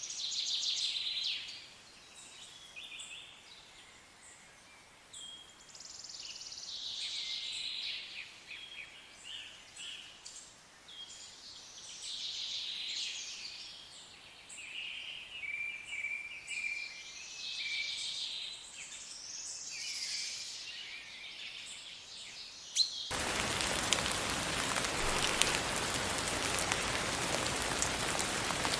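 Songbirds calling and trilling over a quiet background, with repeated chirps and short warbling phrases. About twenty-three seconds in, this cuts off abruptly to a steady hiss of rain falling.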